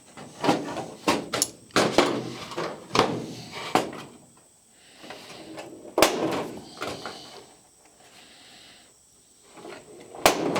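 Irregular knocks, clicks and clatter of aluminium airframe parts and hand tools being handled, with a few sharp impacts and quieter pauses between them.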